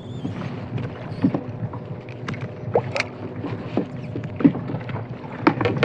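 Irregular knocks, clicks and brief squeaks of handling on a kayak, with water lapping at the hull.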